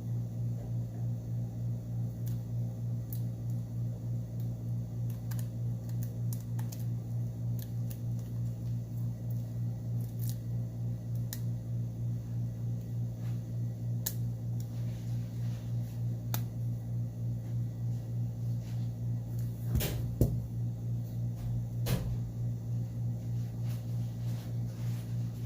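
Scattered small clicks and taps of hand tools working on a smartphone's screws, clips and plastic frame during disassembly. A steady low hum with a slight pulse runs under them throughout, and two sharper clicks come near the end.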